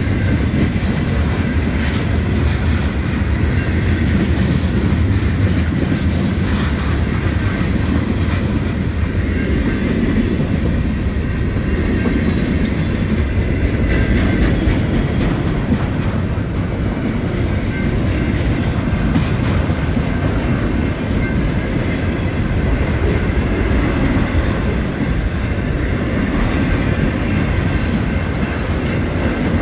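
Freight cars of a Norfolk Southern train rolling past at close range: a steady low rumble of steel wheels on rail, with a thin high wheel squeal. A run of clicks over rail joints comes about halfway through.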